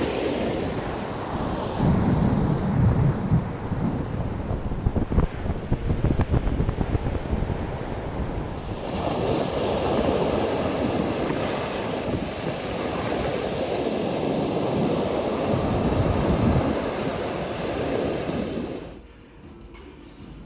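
Rushing water, a steady roar, with wind buffeting the microphone in gusts during the first half. It cuts off abruptly about a second before the end.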